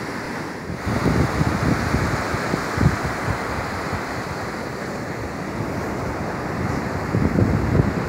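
Ocean surf breaking and washing up on a beach, steady and continuous, with wind rumbling on the microphone that swells about a second in and again near the end.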